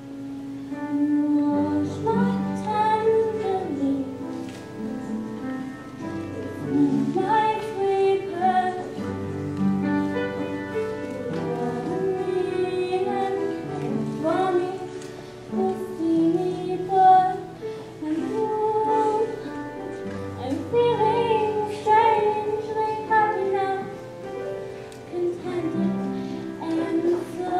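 A young woman singing a slow ballad over an instrumental accompaniment with sustained bass notes.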